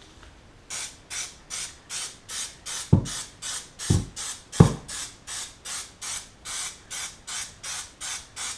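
Aerosol can of Plasti Dip rubber coating spraying in short, evenly repeated hissing bursts, about two and a half a second, with three louder thumps around the middle.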